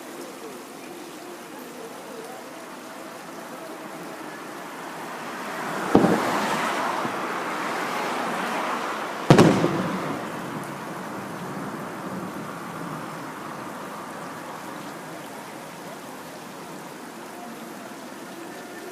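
Aerial fireworks shells bursting: a sharp loud bang about six seconds in that trails off over a few seconds, then a second loud bang about three seconds later that dies away more quickly.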